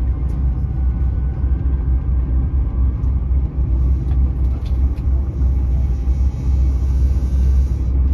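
Cabin noise of an Öresundståg electric train running at speed: a steady low rumble, with a few faint clicks about four to five seconds in.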